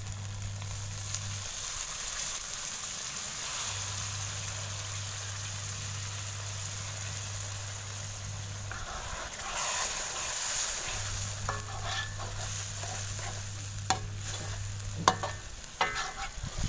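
Liver masala gravy sizzling in an iron kadhai with a little water just added. A low hum comes and goes, and near the end a spatula clicks and knocks against the pan.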